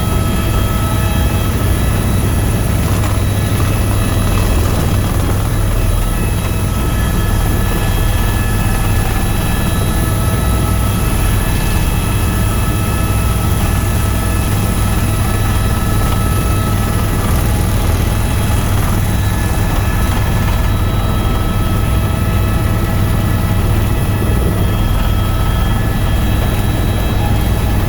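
Tour helicopter in flight: steady rotor and turbine engine noise, a heavy low drone with several high, steady whining tones over it.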